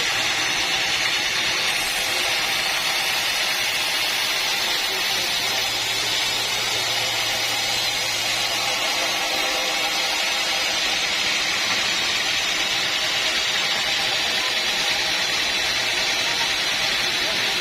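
Sawmill machinery running with a steady, even hiss-like rush that does not change.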